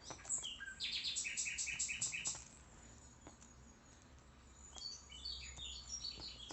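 Cockatiel chirping: a quick run of repeated high chirps, about five a second, for about two seconds, then softer scattered chirps near the end.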